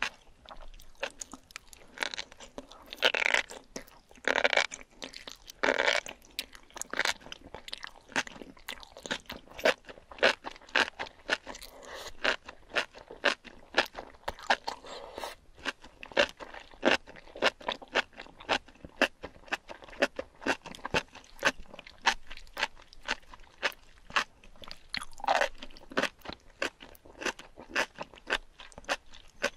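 Close-miked chewing of enoki mushrooms in thick spicy sauce: rapid wet, crunchy clicks, with a few longer, louder wet sounds in the first six seconds and again near the end.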